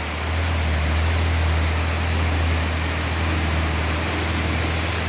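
Heavy truck's diesel engine running with a steady low drone and broad mechanical noise, getting louder about half a second in.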